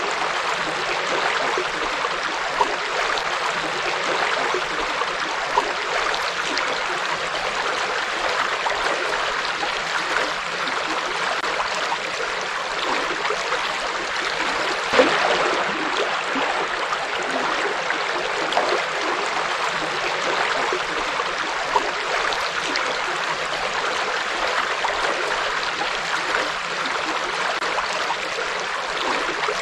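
River water flowing: a steady rushing noise, with a few brief louder splashes now and then.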